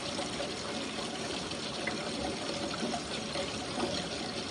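Steady rain falling during a thunderstorm, an even hiss of water with a few faint drip ticks.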